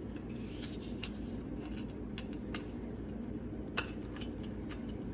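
Scattered light clicks and taps as a chili powder container is handled and shaken at the bowl, over a steady low hum. The container's lid is still closed.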